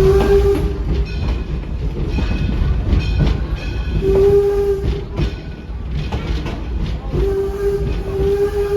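Steam locomotive whistle blown three times: a short blast at the start, another short one about four seconds in, and a long blast from about seven seconds on, over the steady rumble and clicking of the passenger train rolling on the rails.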